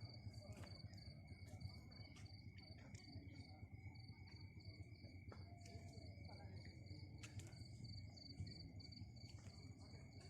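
Crickets chirping, a faint steady high trill with a regular pulse running through it, with a few short clicks.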